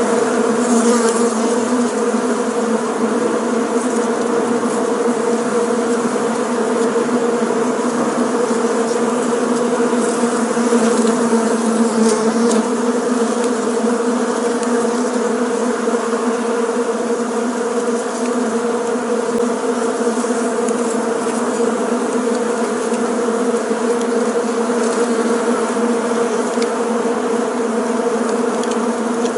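Many bees buzzing together in a steady, dense hum.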